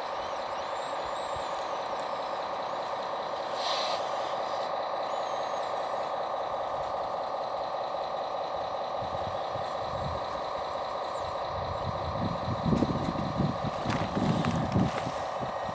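Electric motors and gearboxes of radio-controlled scale logging equipment whining steadily, with a cluster of low knocks and thumps about three-quarters of the way through.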